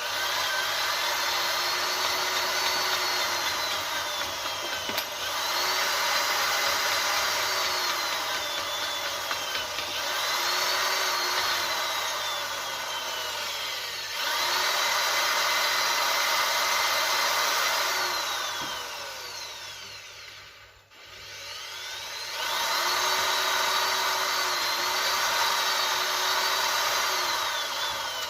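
Electric drill spinning a valve against its seat with lapping paste in a Daewoo Nexia cylinder head: a gritty grinding under a motor whine that rises and falls in runs of four to five seconds, with a brief stop about 21 seconds in. The valves are lapping in well and quickly.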